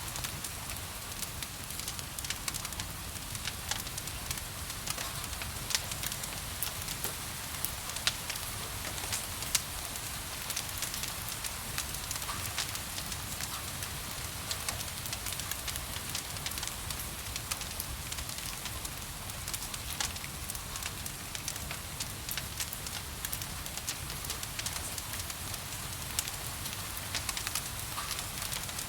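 Wood fire crackling in a fireplace, with frequent scattered sharp pops and snaps over a steady hiss of rain.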